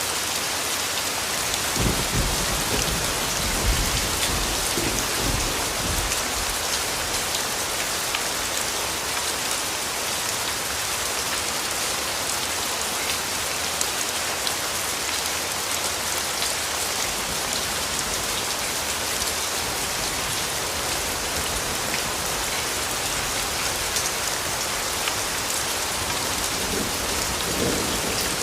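Steady rain falling, an even hiss with scattered drop ticks. A low rumble of distant thunder rolls in about two seconds in and fades after a few seconds; a faint second rumble comes near the end.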